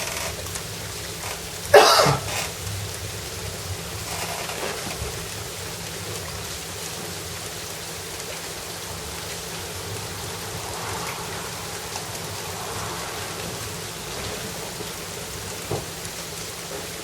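Steady rain falling, with a sudden loud crack about two seconds in.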